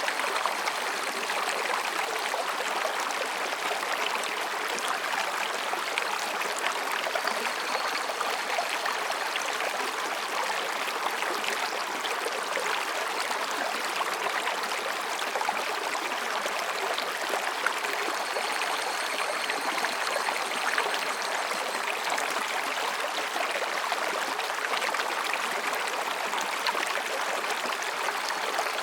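Mountain stream babbling over and between rocks, a steady, unbroken rush of water. Faint high-pitched higurashi cicada calls sound twice in the background.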